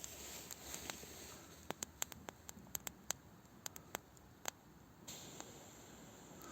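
Small campfire of damp sticks crackling: sharp, irregular pops and snaps, a dozen or so over a few seconds, over a faint hiss, as the fire catches and burns steadily.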